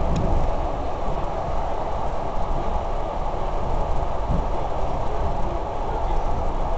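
ED4M electric multiple unit running along the line, heard from inside the passenger car: a steady rumble of wheels on the rails, with a faint knock or two.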